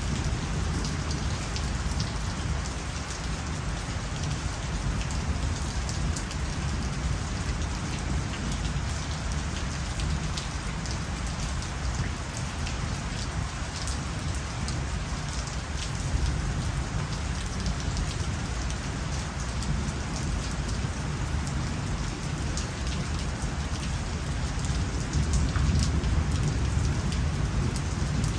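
Steady rain, the patter of many drops striking a surface over a deep low rumble.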